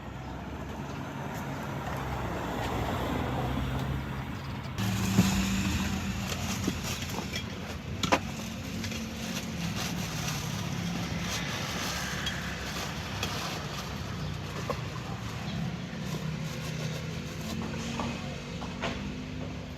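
Street traffic: a motor vehicle's engine running with a steady low hum, with a few sharp clicks or knocks, the loudest about five and eight seconds in.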